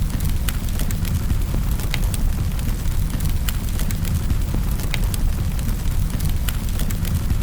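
Wood fire crackling in a fireplace: scattered sharp pops and snaps, a few every second, over a deep, steady rumble.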